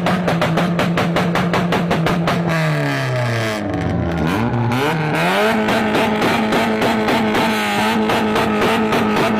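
Car engine running at steady high revs with a rapid even pulse. About two and a half seconds in, its pitch falls, then climbs back and holds slightly higher than before.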